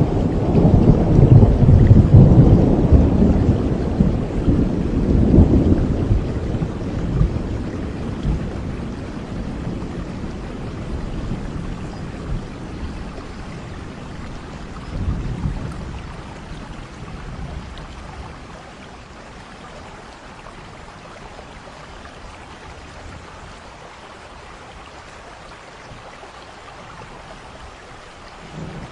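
Rainstorm: steady rain with a long, loud thunder rumble in the first several seconds that slowly fades, a shorter, smaller rumble about halfway through, then only steady rain.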